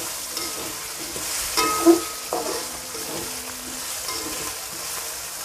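Ground spice paste with kaffir lime leaves, galangal and lemongrass sizzling in hot oil as it is stir-fried, with a steady hiss. A single louder knock comes about two seconds in.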